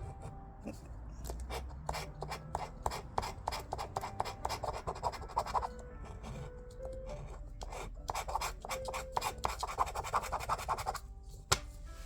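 Instant lottery scratch card being scratched off in two runs of rapid scraping strokes, the second run starting about eight seconds in. Faint background music plays under it, and there is one sharp click near the end.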